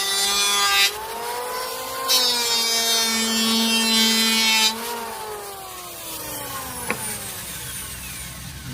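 Electric woodworking power tool running with a steady motor whine, cutting into wood twice in stretches of a second or more, then the motor pitch slowly falls as it winds down, with a single sharp click a couple of seconds before the end.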